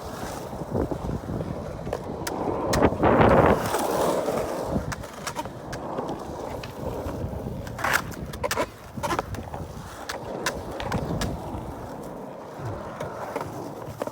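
Skateboard wheels rolling on concrete, swelling louder about three seconds in, with sharp clacks of the board here and there.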